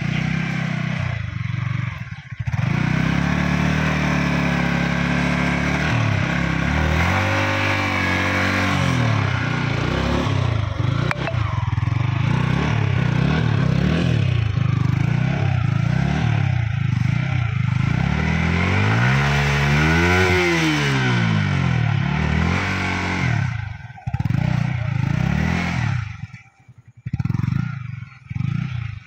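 Yamaha R15 V4's 155 cc single-cylinder engine revved hard over and over, its pitch rising and falling, as the rear wheel spins and slips in wet mud. Near the end the engine note drops away into short blips.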